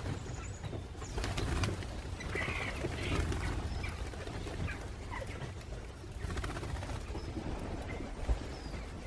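European starlings feeding on a lawn, giving short scattered chirps and calls over a steady low rumble.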